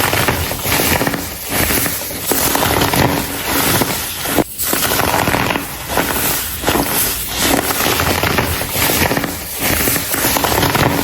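Compressed baking soda being crumbled and crushed, a dense crackling crunch of many tiny cracks that runs on almost without a break, pausing briefly about halfway through.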